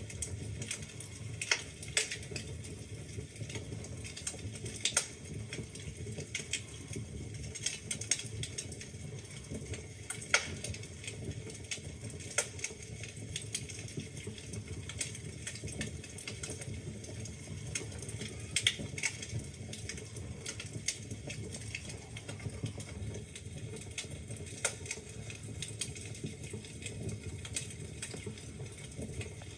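Wood fire crackling in a fireplace: a steady low hiss and rumble of the flames with irregular sharp crackles and occasional louder pops from the burning logs.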